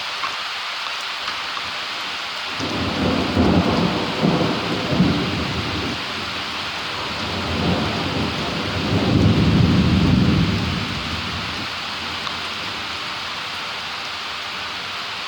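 Steady rain falling, with a long roll of thunder rumbling in a few seconds in, swelling twice and fading out after about eight seconds.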